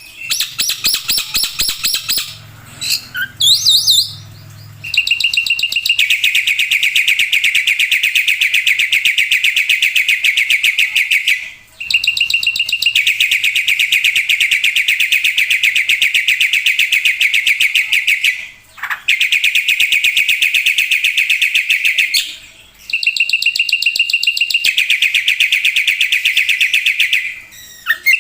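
Black-winged starling (jalak putih) singing a varied song with mimicked phrases: a few seconds of mixed fast notes and rising whistles, then long, very fast trills of repeated notes lasting several seconds each, broken by short pauses.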